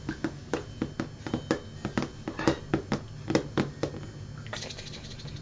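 An African grey parrot tapping on a hard surface, a quick irregular run of sharp taps, about four a second, that stops about four seconds in.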